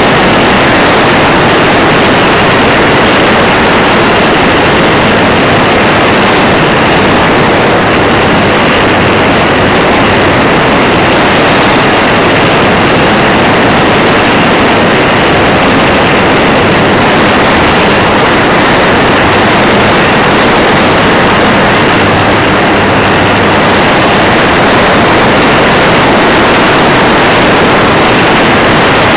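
Model Cessna RC airplane's motor and propeller, heard as a loud, steady rushing roar mixed with wind noise on a micro camera's microphone mounted on the plane, with a faint low steady hum at times.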